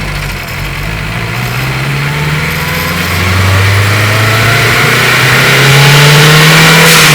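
Turbocharged Honda K20 four-cylinder engine, heard from the engine bay, accelerating under load. Its pitch climbs steadily, with a higher whine rising alongside. Near the end there is a short hiss as the revs fall.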